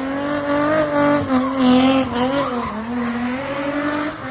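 Spinning car's engine held at high revs, its pitch wavering up and down, with the tyres skidding and squealing as the car spins; loudest about halfway through.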